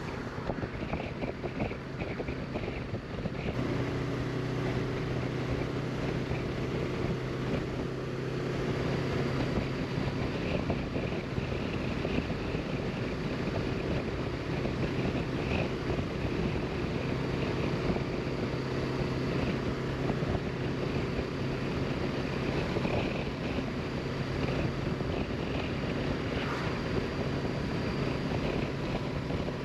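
Honda CB500X parallel-twin engine running at a steady cruising pace, with wind rushing over the microphone. The engine note becomes stronger about three and a half seconds in.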